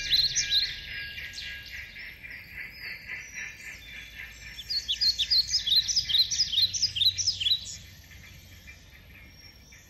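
Birds chirping in rapid runs of short, quick-falling notes, in two bouts; the second, louder bout stops about eight seconds in, leaving a faint low hum.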